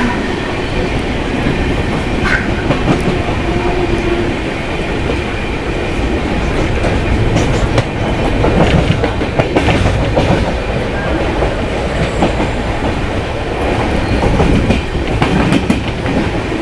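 Jan Shatabdi Express passenger train running, heard from aboard a coach: a steady rumble with irregular clacks of the wheels over rail joints.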